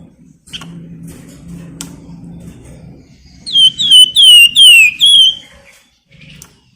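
A flamboyan songbird calls: a quick run of five loud, high, downslurred whistled notes, about 3.5 seconds in. Under it there is a low hum and a few sharp clicks.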